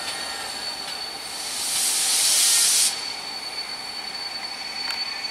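Steam locomotive 46100 Royal Scot releasing steam while standing: a loud hiss swells for about a second and a half, then cuts off suddenly. A steady high-pitched whine runs underneath.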